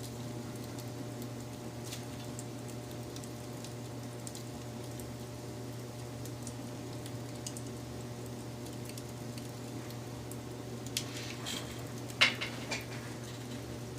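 Wood fire burning with a steady low rumble and scattered small crackles, then a run of louder snaps and pops near the end, the sharpest one about twelve seconds in.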